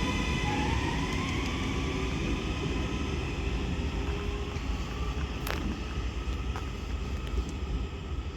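Northern Class 331 electric multiple unit pulling away, its traction motors whining and rising in pitch as it gathers speed over a low rumble. A sharp click comes about five and a half seconds in.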